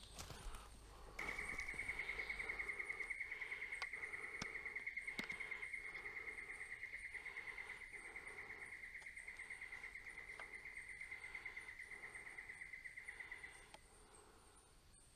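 An insect trilling: one long, steady, rapidly pulsing high-pitched trill that starts about a second in and stops shortly before the end.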